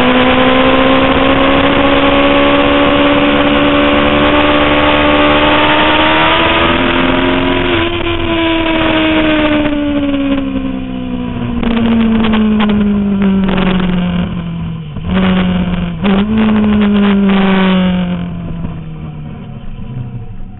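Suzuki GSX-R750 inline-four at speed, heard from on board with heavy wind rush. The revs climb slowly for about seven seconds, then fall away as the bike slows, with a few sharp cracks and a short rev in the last third. It gets quieter near the end.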